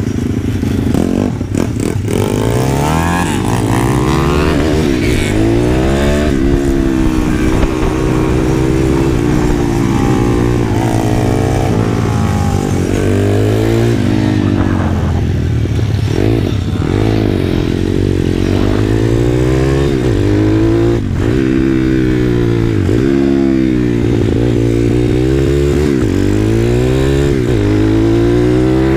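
Pit bike's small single-cylinder four-stroke engine revving up and easing off over and over, its pitch climbing and dropping every couple of seconds as it is ridden on the throttle.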